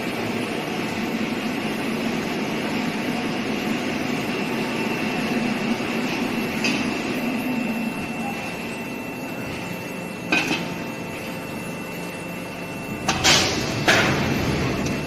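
Hydraulic deep drawing press running on a factory floor: a steady mechanical hum with a thin, high, steady whine. Three sharp metallic clanks sound over it, one about two-thirds of the way in and two in quick succession near the end.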